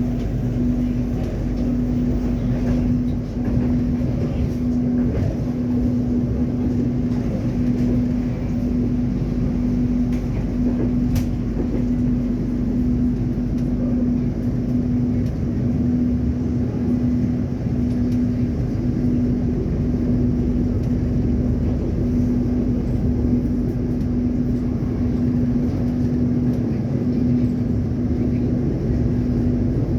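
Train running at a steady pace: a continuous low rumble with a constant steady hum, and a single sharp click about 11 seconds in.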